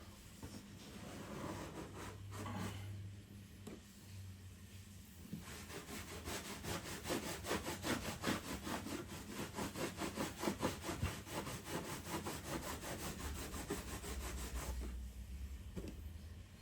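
Rasping back-and-forth strokes of a hand tool, about four or five a second, sawing or abrading a hard material. They start about five seconds in after a few lighter scrapes, and stop shortly before the end.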